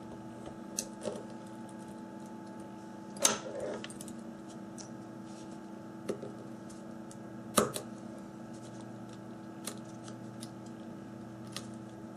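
Small clicks and taps of a repair tool working at a phone's ribbon-cable connectors, with two sharper clicks about three and seven and a half seconds in. A steady low electrical hum runs underneath.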